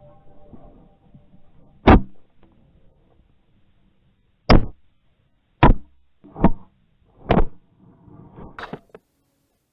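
A series of six sharp knocks or thumps at uneven intervals, with near quiet between them.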